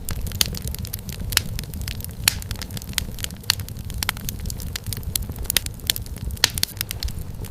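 Wood fire crackling in a fireplace: irregular sharp pops and snaps of firewood, several a second, over a steady low rumble of the flames.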